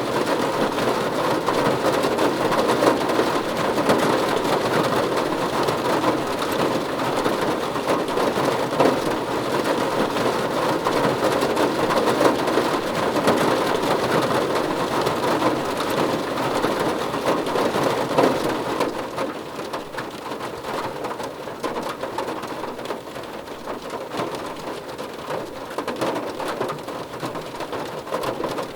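Steady rain pattering on a car roof, a dense wash of small drop impacts that eases slightly about two-thirds of the way through.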